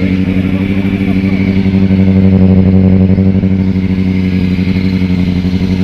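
Motorcycle engine running steadily at idle through its exhaust, swelling a little louder about two seconds in before settling back.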